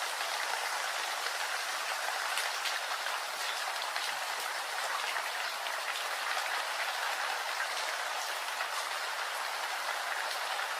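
Steady rain falling: an even hiss of drops with faint separate taps, unchanging throughout.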